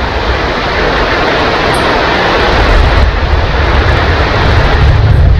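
Heavy rain falling steadily, with a deep rumble of thunder that swells near the end.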